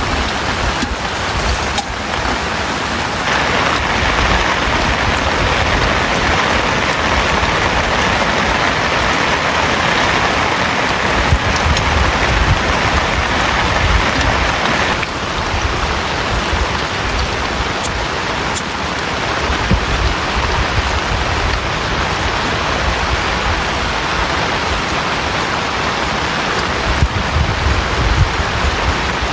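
Heavy rain pouring steadily, growing heavier about three seconds in and easing back about fifteen seconds in.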